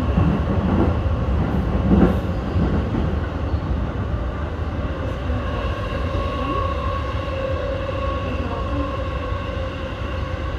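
Keihin-Tohoku Line E233-1000 series electric commuter train running between stations, heard from inside the train. There is a steady rumble of wheels on rail under a steady motor whine, with a few knocks in the first three seconds.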